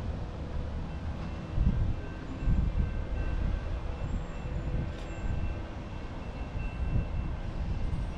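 Low rumble of a distant train on the main line, with wind gusting on the microphone.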